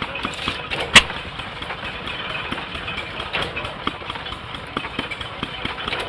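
Antique hit-and-miss stationary engines running, a dense, irregular stream of firing knocks and clatter. A single sharp crack stands out about a second in.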